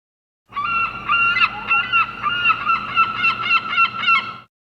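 Birds calling: a rapid run of loud, harsh, pitched calls, about two or three a second, starting half a second in and cutting off abruptly near the end.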